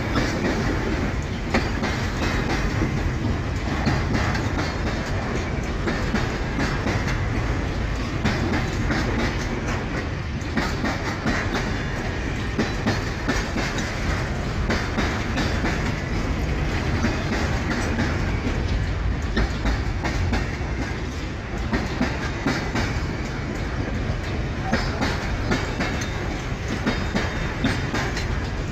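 Empty freight wagons of a long train rolling past, a steady rumble with frequent clicks of wheels over rail joints.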